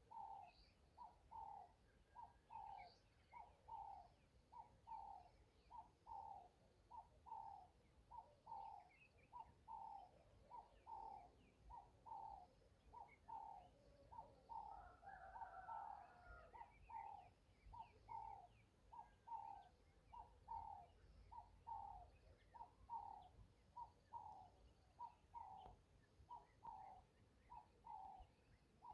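A bird calling over and over, a short note repeated evenly about three times every two seconds, with a longer, rougher call about halfway through.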